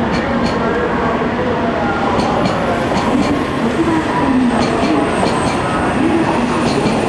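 An N700A Shinkansen train pulling out of the platform at low speed, its wheels clicking in quick pairs as the bogies cross rail joints, over a steady running noise with a low wavering tone.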